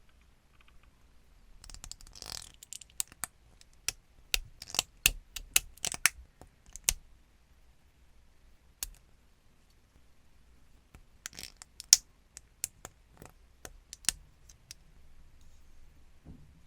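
Plastic model kit parts being assembled by hand: two flurries of sharp plastic clicks and snaps with a quiet gap between, and a brief rustle about two seconds in.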